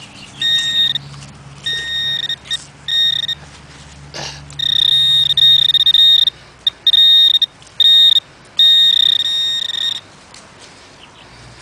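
Metal detector sounding a high electronic tone in on-off bursts, some short and some held for more than a second, as it is passed over a buried iron target, an old square nail. The tone stops about ten seconds in.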